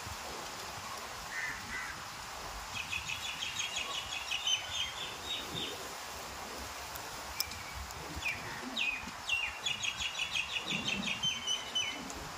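A bird calling in two quick runs of repeated chirps, the first about three seconds in and the second from about eight seconds in until near the end, over a steady background hiss.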